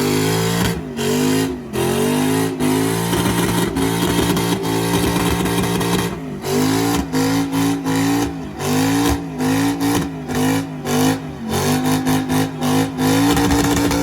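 A car or truck engine revved hard and held near the top of its revs, with the pitch repeatedly dropping for an instant and picking back up, more rapidly in the second half.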